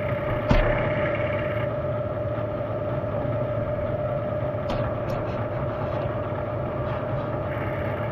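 A machine runs with a steady hum and a held tone. There is a sharp metallic knock about half a second in and a few light clicks around five seconds in.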